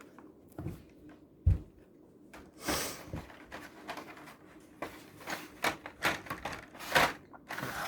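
Plastic-and-card toy blister packaging being handled: irregular crinkles, rustles and small clicks, with a thud about a second and a half in and a busier run of crinkling near the end.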